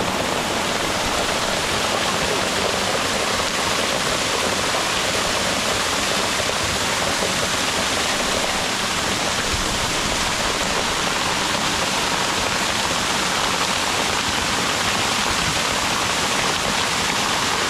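Waterfall rushing: a steady, even roar of falling water heard from the top of the falls.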